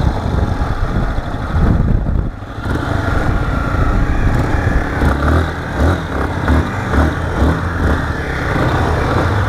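Motorcycle engine running, with irregular low pulses in the second half.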